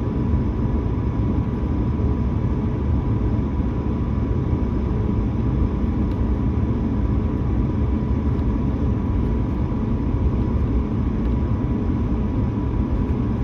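Steady cabin noise inside an Airbus A220-300 on the ground, its engines running: an even low rumble with a thin, constant high tone.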